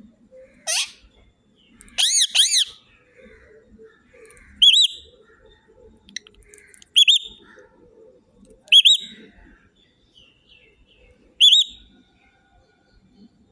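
A small pet parrot giving short whistled chirps, about six of them a couple of seconds apart. The first is a quick rising sweep.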